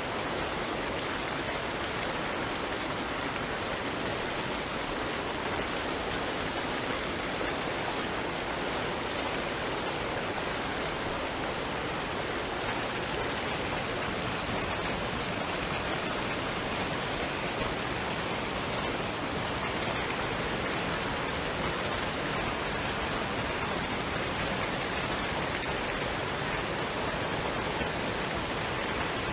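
Waterfall and stream water rushing as a steady, even noise with no change in level.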